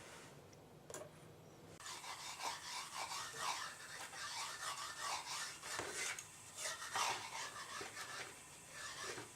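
Scotch-Brite pad on a coat-hanger wire scrubbing up and down inside a small hole in an HEI distributor housing: a rough rubbing scrape at about two strokes a second, starting a couple of seconds in.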